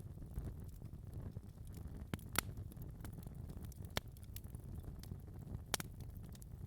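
Wood fire in a fireplace crackling: a handful of sharp, scattered pops, the strongest a little over two seconds, four seconds and nearly six seconds in, over a steady low rumble of the burning fire.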